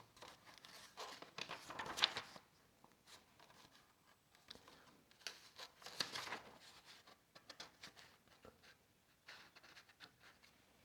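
Soft, intermittent rustling of the paper pages of an instruction booklet being leafed through, with a few light clicks of handling.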